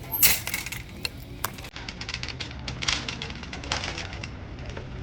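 Irregular clicking and clattering over a steady low hum, loudest in a burst of clatter near the start.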